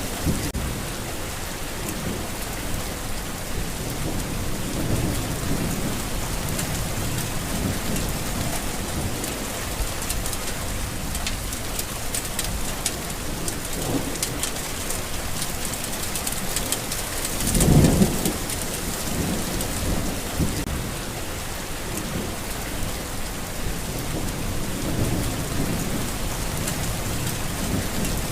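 Steady rain falling on a garden, with distant thunder rumbling low underneath and one louder roll of thunder about two thirds of the way through.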